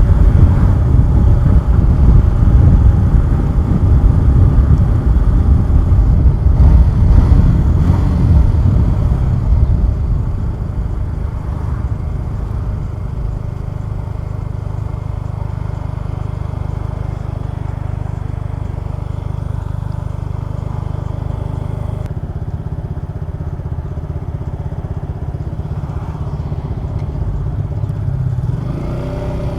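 Suzuki Gixxer 150SF single-cylinder motorcycle being ridden, heard from the rider's position with heavy wind rumble on the microphone. About ten seconds in the rumble drops away to a quieter, steady engine note, and near the end the engine revs climb in pitch.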